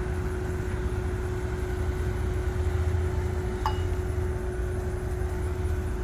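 Ground air-conditioning unit on a wagon running steadily, hooked up to cool a parked helicopter's cabin: a low rumble with a steady hum. A single brief clink about halfway through.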